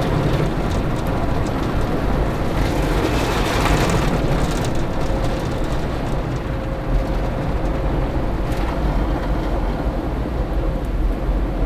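Automatic tunnel car wash working over a car, heard from inside the cabin: a steady, loud mix of water spray and machinery noise.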